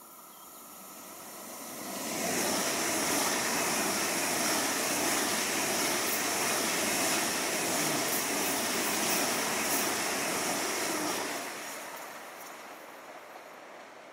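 A train passing through at speed: a rushing noise builds up, stays loud for about nine seconds, then dies away as it recedes.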